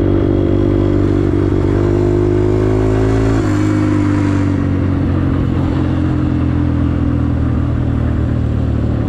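Motor vehicle engine running near idle: the revs creep up slightly, then drop about three and a half seconds in and settle lower. The engine has a ticking noise that the owner can't identify.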